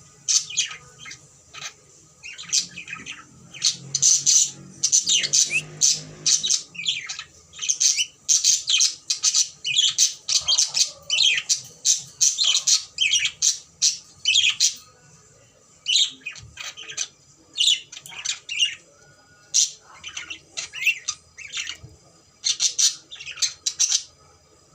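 Cockatiel calling in long runs of short, high squawks and chirps with brief pauses between runs, falling quiet just before the end.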